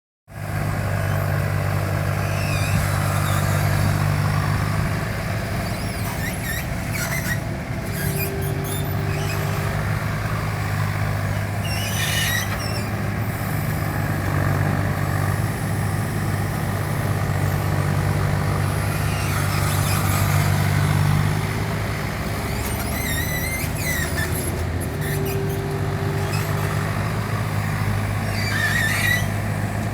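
Takeuchi TB225 amphibious mini excavator running steadily under working load, with brief high squeals every few seconds as it digs.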